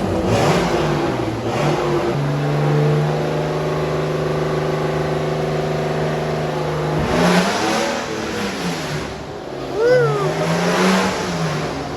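Turbocharged BMW M50 straight-six running on the dyno during tuning: held at a steady speed for several seconds, then the revs rise and fall twice.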